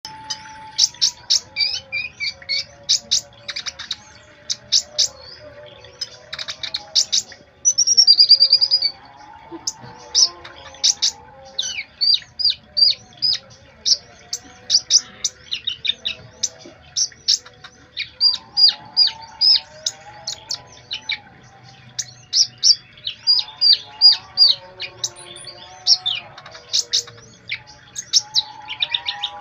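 Konin songbird singing: runs of sharp, high chirps repeated in quick succession, with a louder buzzy trill about eight seconds in. A softer, lower warbling runs underneath.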